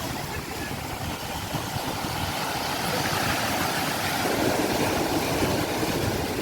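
Sea waves breaking and washing on the shore, a steady rushing noise that swells a little through the middle.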